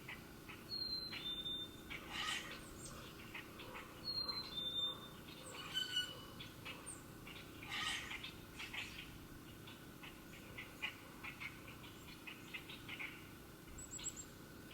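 Wild songbirds calling: short clear whistled notes, twice in pairs in the first five seconds, among many quick chips and chirps, with a brief high call near the end.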